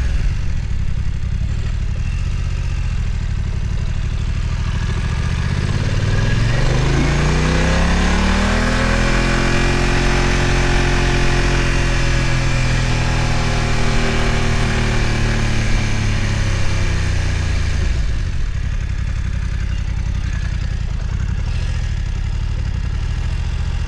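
BMW F900 XR motorcycle's parallel-twin engine running under way at low revs, rising in revs about a quarter of the way in, holding there, then easing back down about three quarters through.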